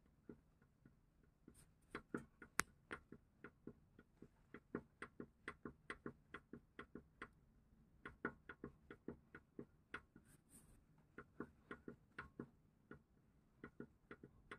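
Faint, irregular clicks, a few a second, from the play in a Hyundai Getz's outer CV joint as the driveshaft is worked back and forth. The owner asks whether this play is the cause of a knock in turns over potholes at low speed.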